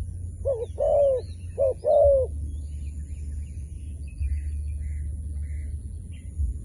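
Dove cooing: four coos in two pairs, each pair a short note followed by a longer falling one, ending a little over two seconds in. A steady low hum runs underneath.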